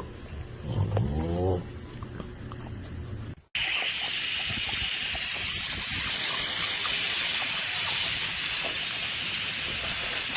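A dog's short vocal call, sliding in pitch, about a second in. After a sudden cut, a steady hissing noise.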